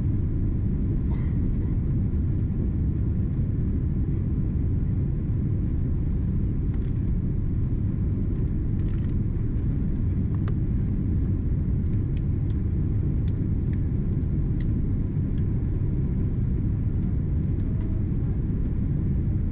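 Steady low rumble of the cabin noise inside a Boeing 777-200ER airliner on final approach, with a few faint clicks over it.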